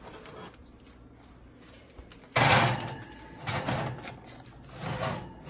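Metal scraping and clatter of a baking tray and oven rack being handled at the oven, one loud scrape a little over two seconds in, then two shorter ones.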